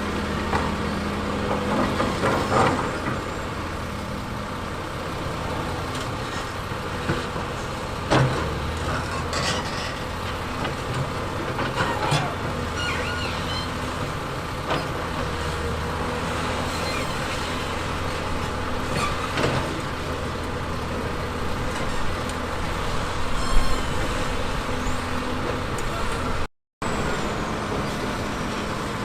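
Heavy diesel construction machinery running steadily, with scattered sharp knocks and clanks. The sound cuts out for a moment near the end.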